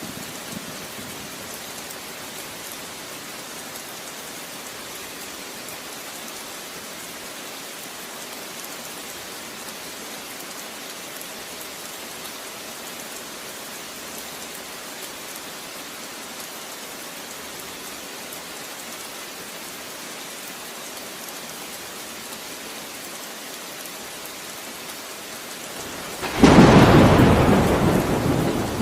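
Steady rain falling, a constant hiss. Near the end a sudden loud clap of thunder breaks in and rumbles, slowly fading.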